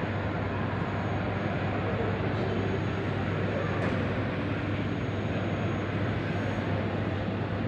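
Aircraft engines running, a steady even rush over a constant low drone.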